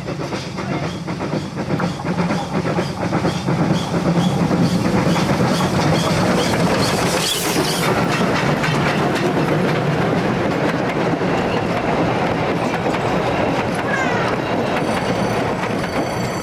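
A steam train running, its wheels clicking over the rail joints. The sound builds over the first four seconds, then holds steady.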